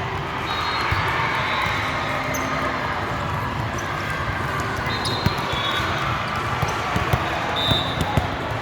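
Gym court sounds during a volleyball rally: a steady hubbub of spectators, a few short sneaker squeaks on the floor, and scattered thumps of the ball and players.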